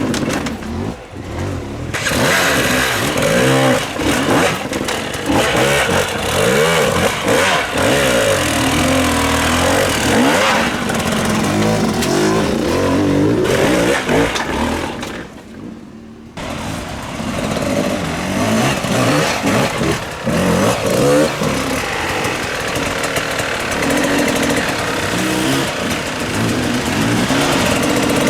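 Off-road motorcycle engines revving hard and repeatedly, the pitch rising and falling with the throttle, with two brief lulls, about a second in and about fifteen seconds in.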